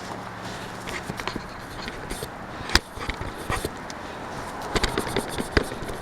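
Close handling noise from a handheld camera while its lens is wiped clean: scattered clicks, rubs and knocks right at the microphone, with one sharp knock about three seconds in and a quick run of knocks near the end.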